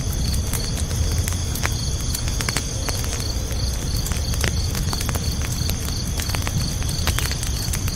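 Campfire crackling and popping with a low steady rumble of burning logs, over crickets chirping in a fast, even pulse.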